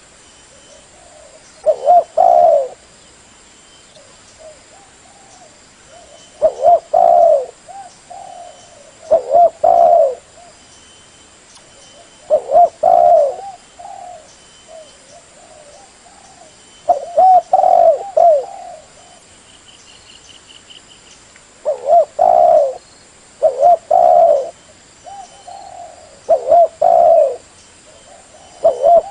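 Spotted dove (tekukur/derkuku) cooing: short phrases of a few coos, repeated every few seconds.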